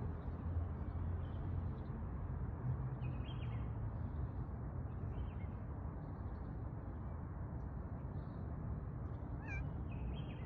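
A cat meowing a few short, faint, high-pitched times over a steady low rumble.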